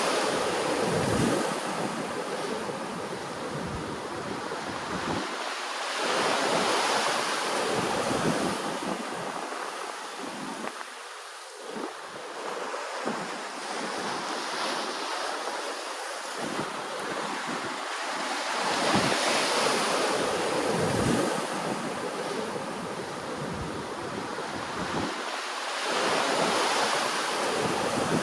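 Ocean waves breaking and washing ashore, surging about every six or seven seconds, with wind buffeting the microphone.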